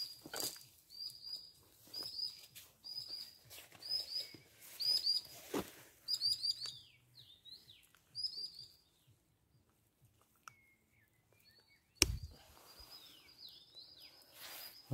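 A small songbird calling over and over, short high chirps with a falling tail, about two a second. The calls stop about eight seconds in and come back faintly near the end. A single sharp knock about twelve seconds in.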